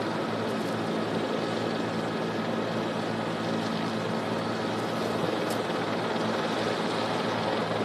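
Steady drone of a helicopter's engine and rotor heard from aboard, a constant low hum under a broad rushing noise.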